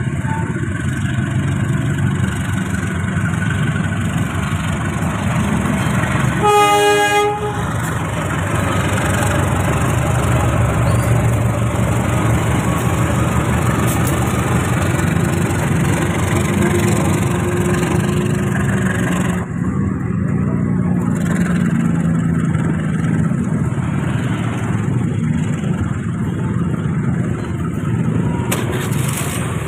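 Passenger train departing behind a CC 203 diesel-electric locomotive: a steady rumble of the locomotive and the coaches' wheels rolling along the rails. One horn blast of about a second comes roughly six and a half seconds in.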